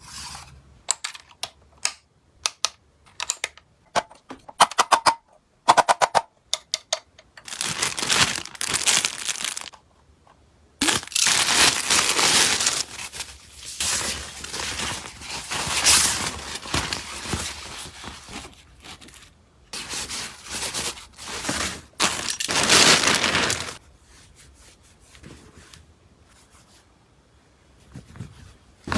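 Items being handled while unpacking and storing: a quick run of sharp clicks and taps, then long stretches of crinkling and rustling, like packaging being torn and crumpled.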